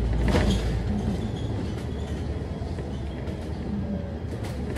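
Cabin noise aboard a Scania K310UD double-decker bus on the move: a steady low diesel-engine rumble with road noise, the deepest rumble easing a little after about a second.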